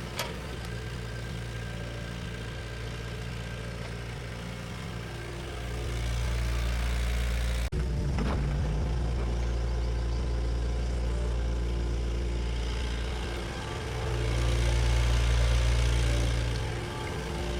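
Bulldozer's diesel engine running with a low, steady note that swells louder about a third of the way in and again near the end.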